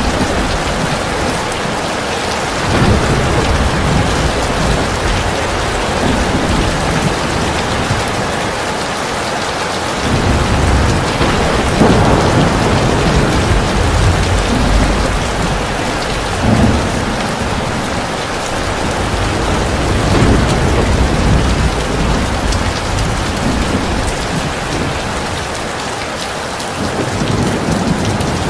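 Heavy rain pouring steadily, with low rolls of thunder swelling up several times underneath it.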